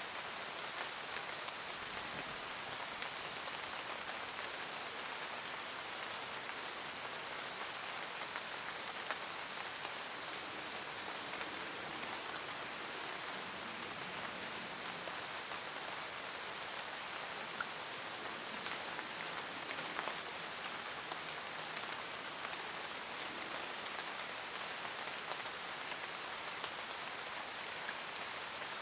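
Steady rain falling in a forest, drops pattering on leaves with scattered sharper drop ticks.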